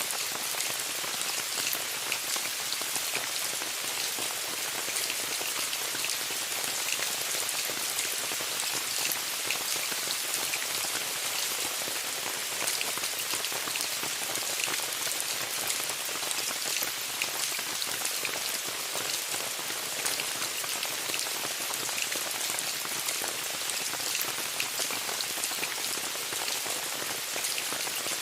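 Steady rain falling on a tent: an even hiss dotted with many small, irregular drop taps.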